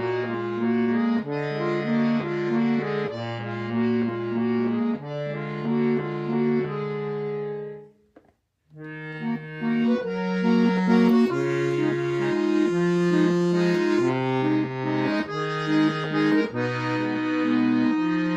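Free-bass accordion playing sustained chords over a moving mid-range bass line. The playing stops briefly about eight seconds in, then resumes.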